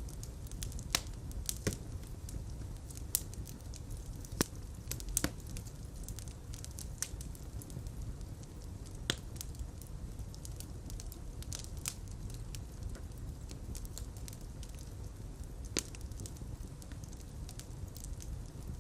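Fire burning in a fireplace: a steady low rumble of flames with irregular sharp crackles and pops, a few of them louder, about one, four and a half, five, nine and sixteen seconds in.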